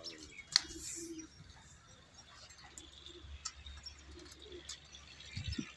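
Domestic pigeons cooing, short low calls repeating on and off, with a few faint high chirps and one sharp click about half a second in.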